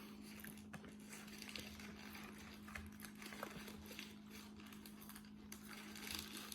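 Faint eating sounds, small clicks and rustles of chewing and handling a burger and fries, over a steady low electrical hum.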